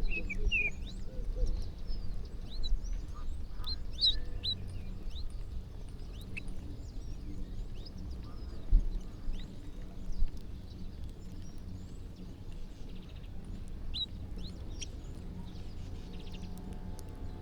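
A flock of birds calling at once while feeding, a steady scatter of short high chirps with a few lower calls, over a low rumble.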